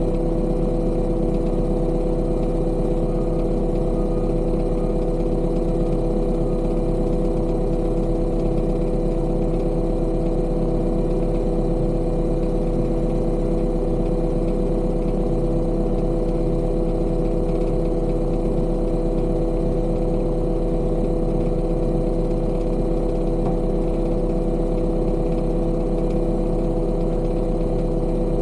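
Heavy construction machine's engine running at a steady speed with a constant drone, unchanging throughout.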